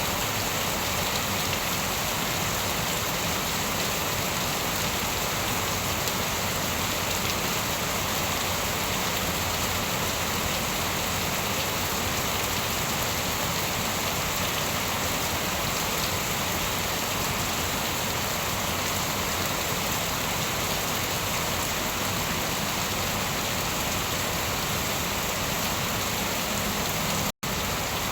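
Steady, even rain falling on a surface, with no thunder. The sound cuts out completely for a split second about a second before the end, then resumes.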